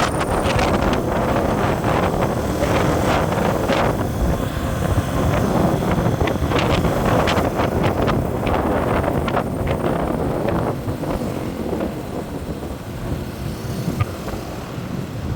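A moving road vehicle running along with wind buffeting the microphone, broken by frequent short knocks and rattles; it eases off somewhat near the end.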